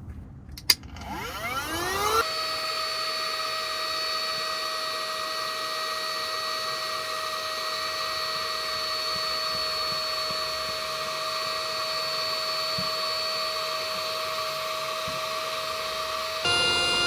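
A small electric motor clicks on, spins up with a rising whine, and runs with a steady high whine. Near the end its pitch shifts suddenly, as if under a change of load.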